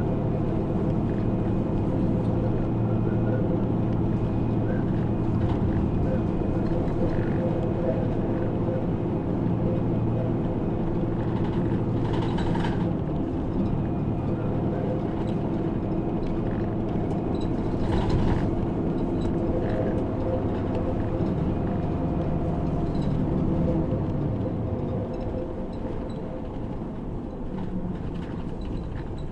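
Route bus's engine running steadily with road noise, heard inside the cabin while under way, with a couple of brief rattling bumps partway through. The engine and road noise ease off near the end as the bus slows.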